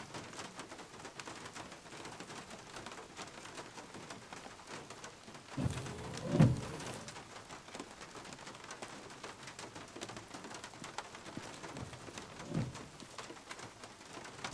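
Steady rain pattering on a van's roof and windows, heard from inside the cab. A short, louder low sound comes about six seconds in, and a fainter one near the end.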